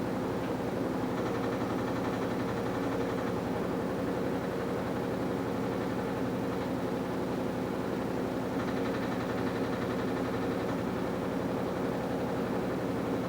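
AQUA top-loading washing machine running steadily, its direct-drive inverter motor giving an even hum with several steady tones under a mechanical whir.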